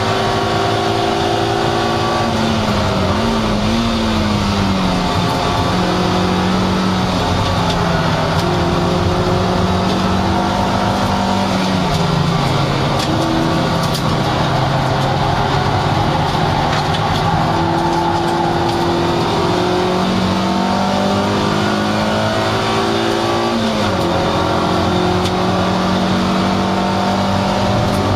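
Toyota MR2 Roadster's 1.8-litre four-cylinder engine running hard at racing speed, heard from inside the cockpit. The engine note dips briefly a few seconds in, drops lower around the middle for a slow corner, climbs back up, and dips again near the end.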